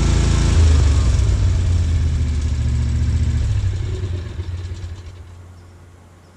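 Riding mower engine running, dropping to a lower, rumbling note about half a second in, then dying away over the last couple of seconds as it is shut off.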